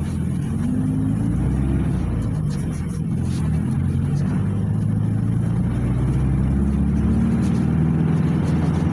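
PAZ 320402-05 bus engine running under way, heard from inside the cabin with road noise, its pitch climbing as it pulls, easing off about two seconds in, then climbing again toward the end.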